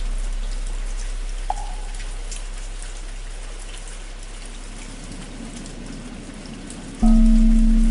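Steady rain pattering. A deep bell's low hum dies slowly away, a single hollow wooden-fish knock sounds about a second and a half in, and near the end the bell is struck again, loud, and rings on.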